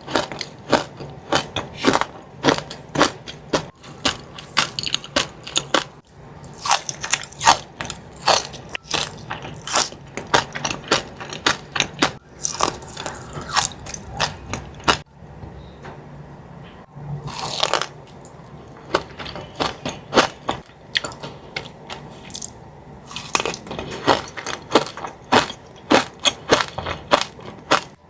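Close-up crunching and chewing of a Dubai chewy cookie, its crisp shredded-pastry and pistachio filling crackling in quick bites, with two short pauses between runs of chewing.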